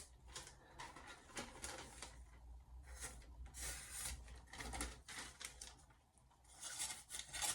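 Faint, scattered rubbing and light clicking handling noises, with brief scraping bursts about halfway through and again near the end.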